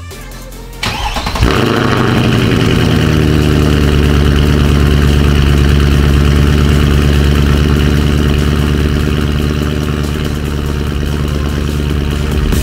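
2011 Mercedes-Benz C63 AMG's M156 6.2-litre V8 started with its freshly rebuilt camshaft adjusters: the starter cranks briefly from just under a second in, the engine catches about a second and a half in, then it settles into a steady idle.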